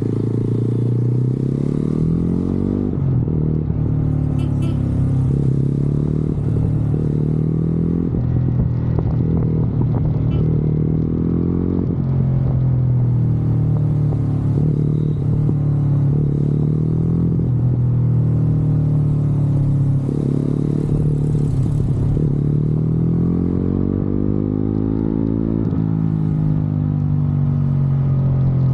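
Motorcycle engine running under way, its pitch climbing with the revs and dropping back again and again as the bike accelerates, shifts and slows.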